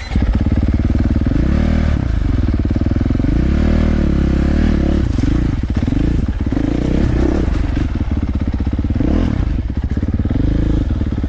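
Dirt bike engine revving up and falling back repeatedly, about every one to two seconds, as the throttle is worked over rough ground.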